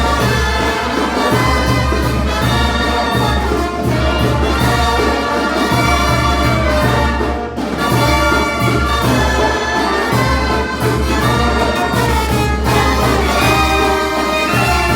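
Brass band playing loud live music, with held brass notes over an evenly pulsing bass beat.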